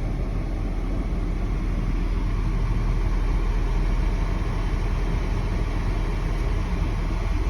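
2008 Chevrolet Equinox engine running steadily after a head gasket repair.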